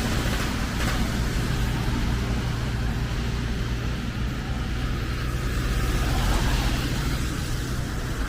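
Street traffic with a vehicle engine running steadily close by, over an even hiss of rain.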